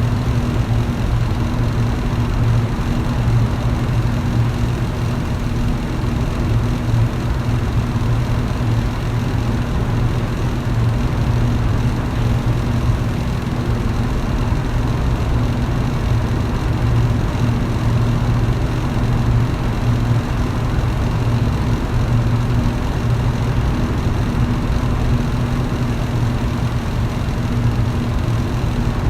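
Electric fan running steadily: a constant motor hum with an even rush of moving air.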